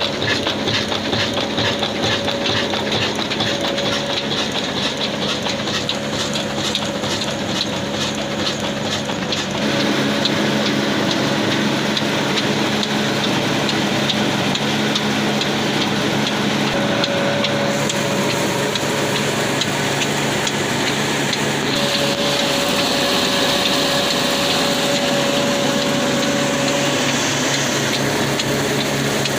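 Old 22-horsepower black diesel engine running steadily with an even beat, driving a wheat-grinding flour mill; the sound gets louder and fuller about ten seconds in.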